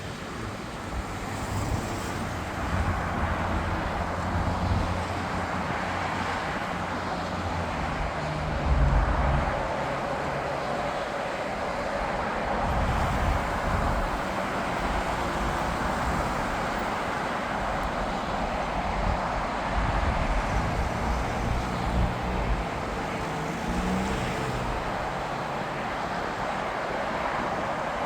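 Jet airliner engine noise: a steady rush with an uneven low rumble that swells and eases over the whole span.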